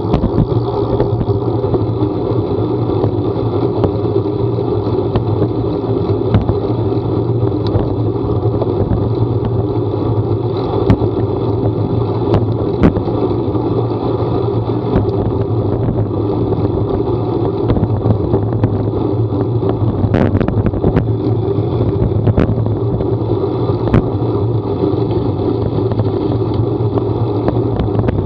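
A vehicle running steadily under way: a constant low engine hum over road noise, with scattered small clicks and knocks.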